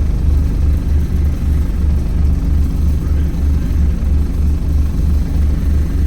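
Engine of a Gemini 2 hybrid double-decker bus running, heard from inside the bus as a steady, loud, low rumble that pulses evenly about three times a second.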